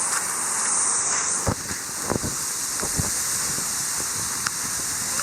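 Steady hiss of rain falling outdoors, with a few sharp ticks of drops scattered through it.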